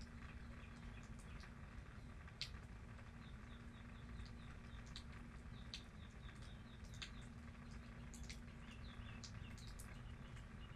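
Light rain dripping, scattered sharp drops ticking irregularly over a faint steady hiss and hum, while a bird chirps in short high notes repeated several times a second.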